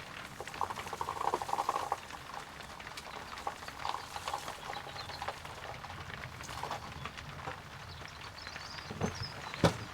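Things being handled and shifted about: rustling and light irregular knocks, with one sharper knock near the end.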